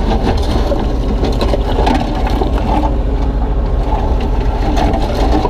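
Kubota U35-3 mini excavator's diesel engine running steadily under load while the bucket digs into broken concrete and stone, with scattered short knocks and scrapes.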